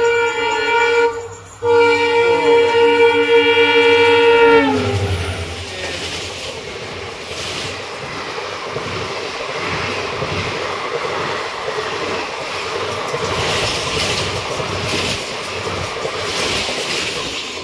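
A passing express train sounds its horn for about four and a half seconds, with a short break about a second in, and the horn's pitch drops as it goes by. Then comes the steady rush and wheel clatter of its coaches passing at speed on the next track.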